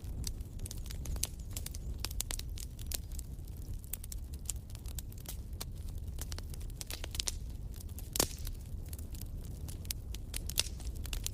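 Wood fire crackling in a fireplace: irregular sharp pops and snaps over a low steady rumble, with one louder pop about eight seconds in.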